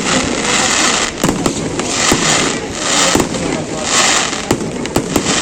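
Fireworks display: many sharp bangs of bursting shells in quick succession, with swells of hissing noise about once a second between them.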